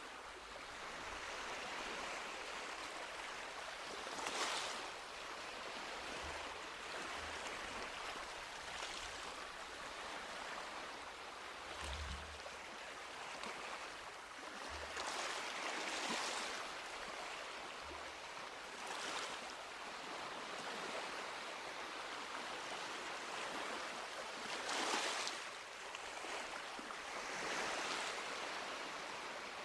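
Small sea waves washing onto a beach: a steady rush of water with a wave surging up every few seconds, and a few soft low thumps.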